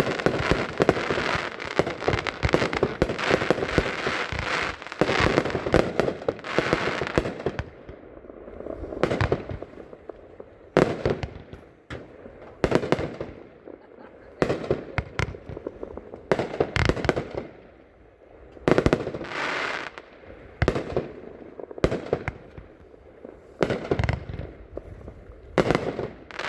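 Consumer fireworks compound cake of three 20-shot cakes firing. For about the first seven seconds the shots come in a dense, rapid crackling stretch, then they come as separate booms about a second apart.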